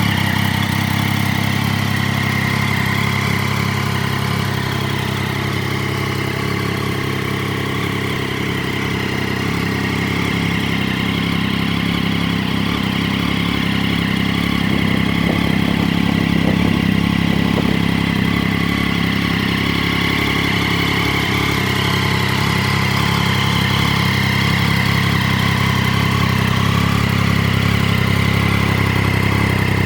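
Triumph Daytona 675's three-cylinder engine idling steadily.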